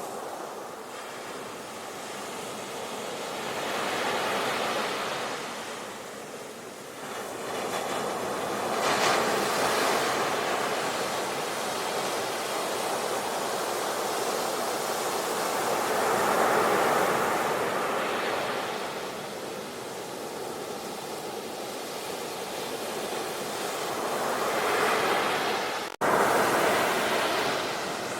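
Ocean waves breaking and washing ashore, the surf swelling and falling back every several seconds. Near the end the sound cuts off abruptly and resumes louder at once, an edit splice in the recording.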